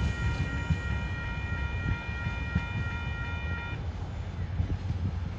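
Freight train hauled by a TasRail TR class diesel locomotive rolling past with a steady low rumble. A steady high-pitched multi-tone sound cuts off suddenly about two-thirds of the way through.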